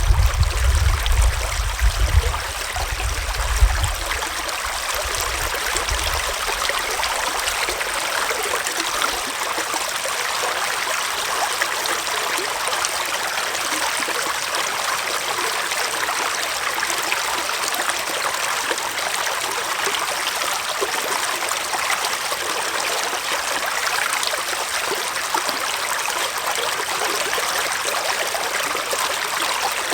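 Small forest stream flowing and trickling steadily over rocks. A low rumble sits under it in the first few seconds and fades out about five seconds in.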